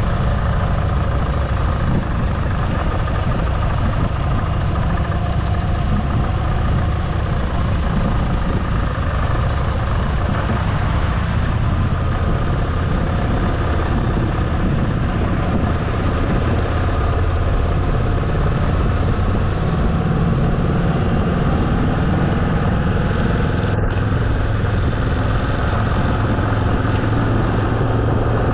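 Motorcycle engine running steadily on the road, with a continuous rushing noise over it; the engine's low note shifts a little about two-thirds of the way through.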